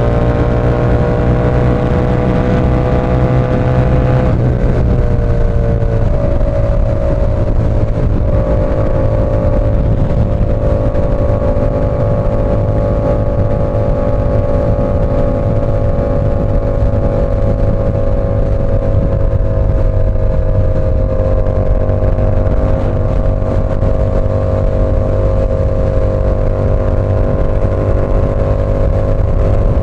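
Yamaha R7's parallel-twin engine through an SC Project CR-T exhaust, running under way. The engine note climbs slowly, drops about four seconds in, then holds fairly steady at cruising revs.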